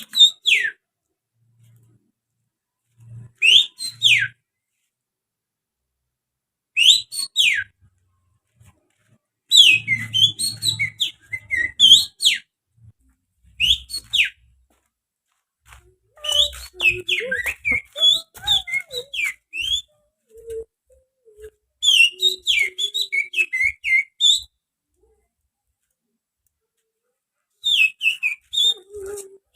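Human finger-whistling imitation of an oriental magpie-robin (kacer) song: short bursts of sharp, falling whistles and quick chattering phrases, separated by pauses of a second or more.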